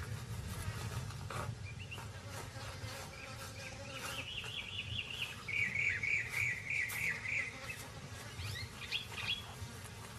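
Wild birds chirping, with a long trilled call about four seconds in that lasts some three seconds, over a low steady rumble and insect buzz, with scattered short clicks and scratches.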